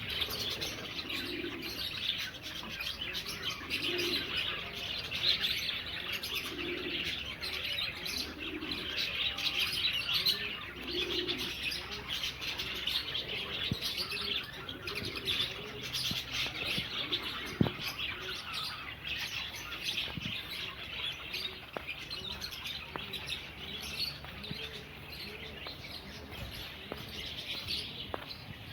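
Aviary chorus of many small cage birds chirping constantly, with doves cooing over and over underneath, mostly in the first half.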